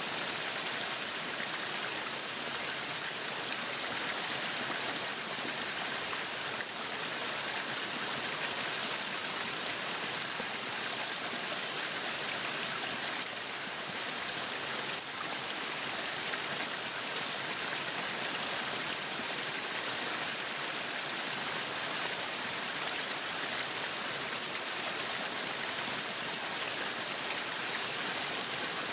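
Meat sizzling on a yakiniku grill, a steady, even sizzle with no break.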